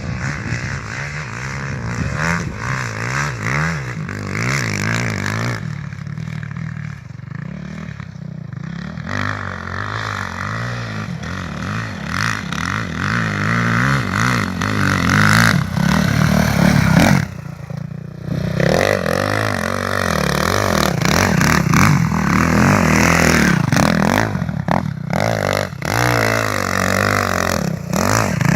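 Motorcycle engine running and revving, its pitch rising and falling again and again, with a brief drop near two-thirds of the way through.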